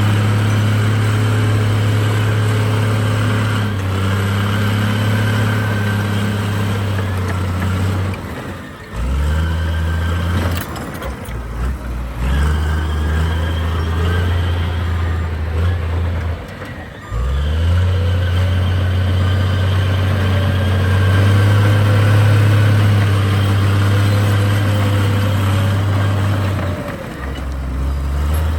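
Heavy diesel engine of earthmoving equipment running under load. Its note dips and picks up again a few times, as the load or throttle changes.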